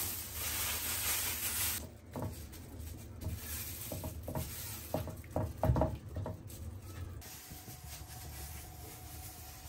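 Kitchen sounds: a steady sizzling hiss that cuts off about two seconds in, then a handful of light knocks and clinks of utensils.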